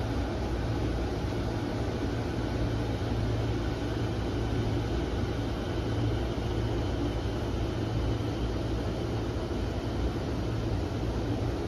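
Steady hum and hiss inside the cab of an electric commuter train standing at a station, its onboard equipment and ventilation running with a constant low hum.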